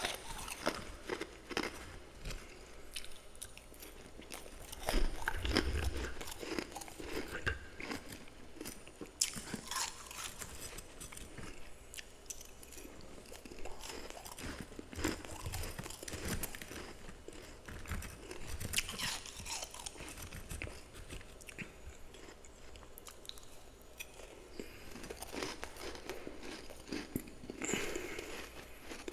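Close-up crunching and chewing of powdery freezer frost in the mouth: irregular bites and crackly chews, with a few louder bursts of crunching.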